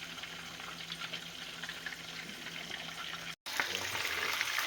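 Hot oil sizzling steadily in a pot as fish and festival dumplings fry, louder after a brief break near the end.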